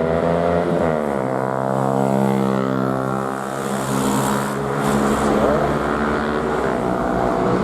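Vehicle engines revving hard as cars and motorbikes accelerate along the road. The pitch drops sharply about a second in, then holds a steady high drone, and another engine rises in pitch near the end.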